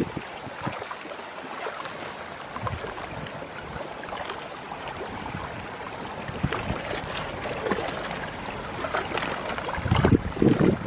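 Outdoor water and wind noise with scattered small clicks and knocks; heavy wind gusts buffet the microphone near the end.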